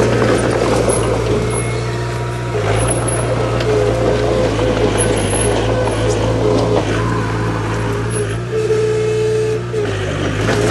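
Heavy diesel construction machinery running under load: a steady low engine drone with a dense rumble over it, and a higher whine that comes and goes several times.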